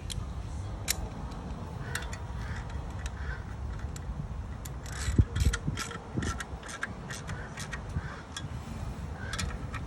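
Irregular metallic clicks and taps, bunched together about halfway through with one dull thump, over a low rumble: hand-tool work during a clutch and transmission install.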